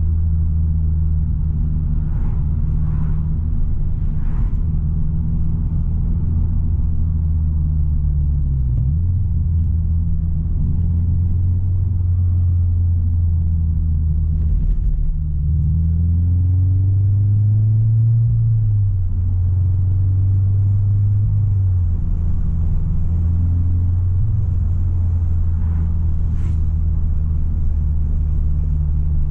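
Subaru BRZ's flat-four boxer engine with a loud, deep-toned exhaust, droning steadily as heard inside the cabin while driving. Its pitch dips and recovers about a third of the way in, breaks off briefly about halfway, then climbs as the car pulls before settling back to a steady drone.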